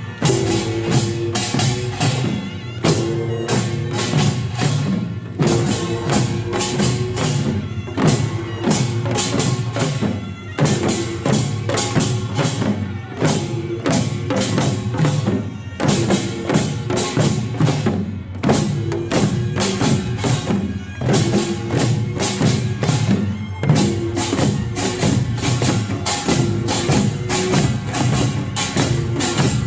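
Korean pungmul percussion ensemble of kkwaenggwari small gongs, jing gongs, janggu hourglass drums and buk barrel drums playing a fast, dense rhythm of rapid strikes.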